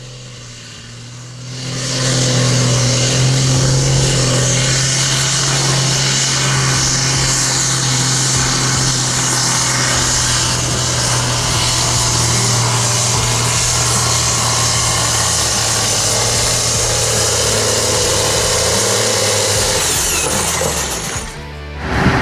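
A heavy transport vehicle's engine running steadily as it drives, with a strong low hum over road and air noise. It swells up about two seconds in and drops away near the end.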